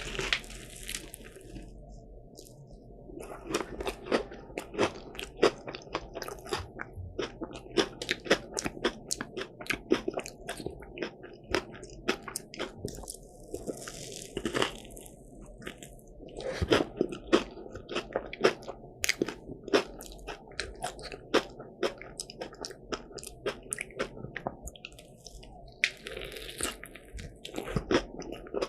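Close-miked eating of a croffle: the crisp, caramelised croissant-waffle crust crunching and crackling in many sharp small cracks as it is bitten and chewed, with three brief louder crackly rushes near the start, about halfway and near the end.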